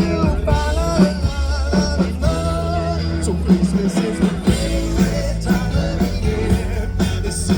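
Live rock music with a singer, amplified over a PA system: a sung melody over a steady bass and drum beat.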